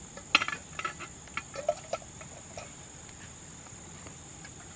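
Insects droning steadily in a high, even pitch, with a few sharp clicks and knocks in the first couple of seconds.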